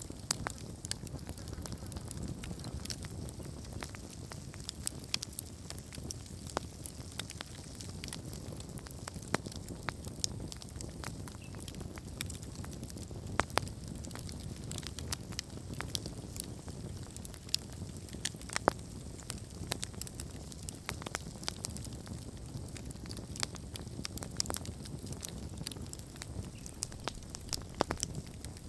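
Wood campfire burning, with a steady low rumble of the flames and frequent sharp crackles and pops, a few louder snaps among them.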